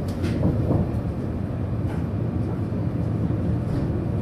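Steady low rumble of a TGV high-speed train heard from inside a passenger car as it accelerates, with a few faint ticks.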